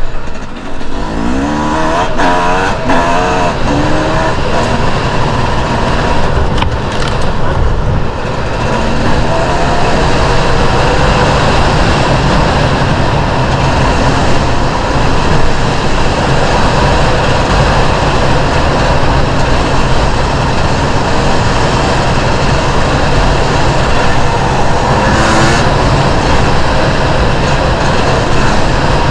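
Enduro dirt bike engine being ridden, revving up and down over the first few seconds, then running steadily and hard under a thick rush of noise.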